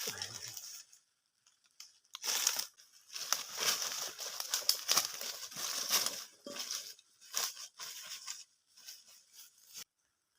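Irregular rustling and crinkling in quick bursts, like dry material being crushed or handled, starting after a brief pause about two seconds in.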